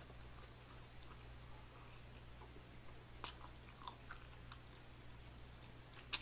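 Faint close-miked chewing of food, with a few sharp mouth clicks or smacks, over a steady low hum.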